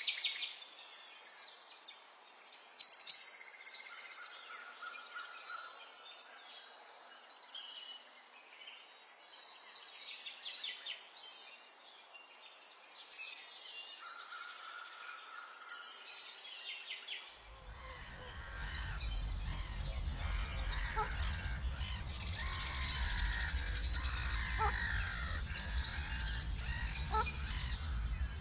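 Several birds chirping and singing in quick, overlapping calls and trills. About two-thirds of the way through a steady low rumble comes in and the chorus grows denser and louder.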